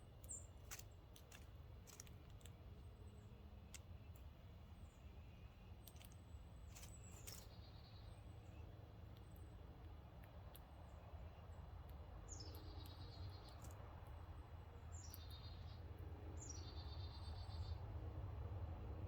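Small songbirds at a feeder calling faintly. Several high calls slide down in pitch and end in a quick trill, coming in a cluster over the last third, with scattered sharp clicks earlier and a steady low rumble underneath.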